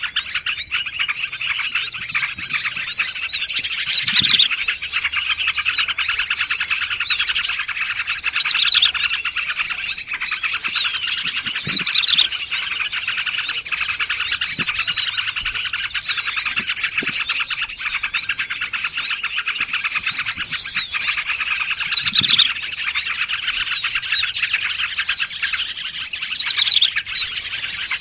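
Dense, layered chirping and trilling of several small songbirds calling over one another without a break, played as a bird-lure recording. A fast, high, buzzy trill runs for a few seconds about halfway through and comes back near the end.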